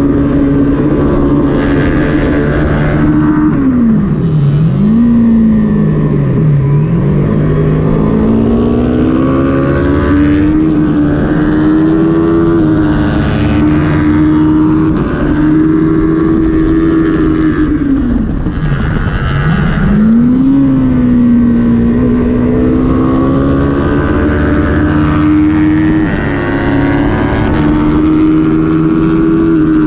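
Kawasaki Ninja 400's parallel-twin engine running hard at high revs, heard onboard with wind rush. Its pitch plunges about four seconds in, again a couple of seconds later, and once more around nineteen seconds, as the rider brakes and downshifts for corners, and climbs back each time as he accelerates out.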